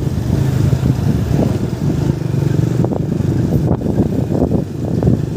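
Motorcycle engine running at low revs in slow traffic, a steady hum with some irregular rattling from about halfway through.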